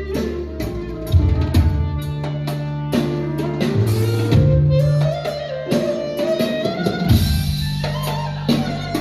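Music played on a Korg Kronos keyboard workstation: a drum and percussion rhythm with plucked-string tones over held bass notes. A melody line slides upward about four to five seconds in.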